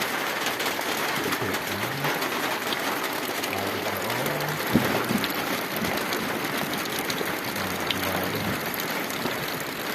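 Steady rain falling, an even hiss throughout, with a single sharp knock about five seconds in.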